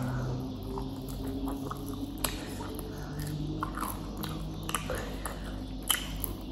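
Close-up mouth sounds of a person eating fried chicken wings: chewing and biting, with small wet clicks and a couple of sharper clicks, about two and six seconds in.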